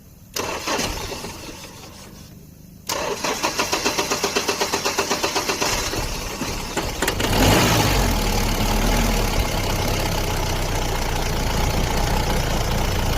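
Mahindra Bolero pickup's diesel engine being cranked by the starter, pulsing at about five beats a second for some four seconds, then catching and running. Its speed falls back and it settles into a steady idle. Just before the cranking there is a short sudden noise that fades.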